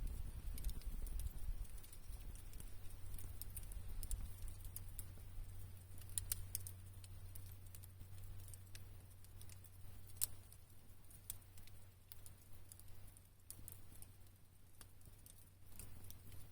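Wood campfire crackling, with scattered sharp pops over a low steady rumble; the sharpest pop comes about ten seconds in.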